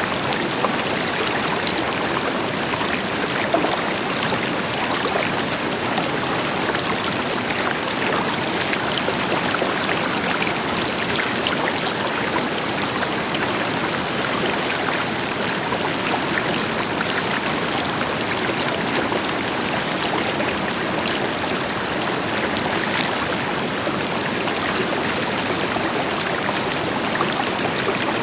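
River water flowing and splashing over stones, a steady rushing with many small splashes, over the deeper, even rush of a distant waterfall.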